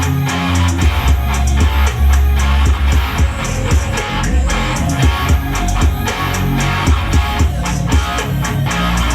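Live rock band playing an instrumental passage: electric guitars, bass and a drum kit with steady cymbal hits, no vocals.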